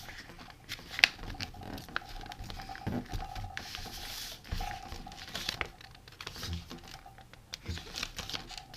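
Stiff paper being folded and creased by hand: crinkling and rustling with scattered light taps and clicks. A faint steady tone hums underneath.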